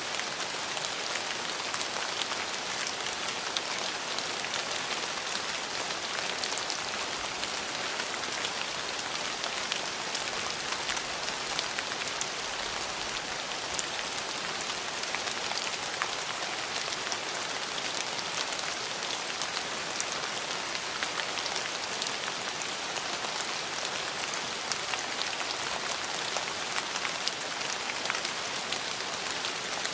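Steady rain falling on surfaces, an even hiss scattered with the small ticks of individual drops.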